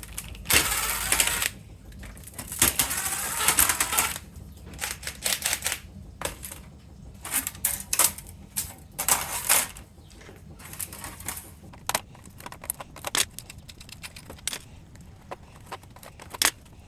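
Small metal parts and hand tools clicking and clattering as an electronics unit is taken apart. There are two longer rattling stretches in the first four seconds, then scattered sharp clicks and knocks.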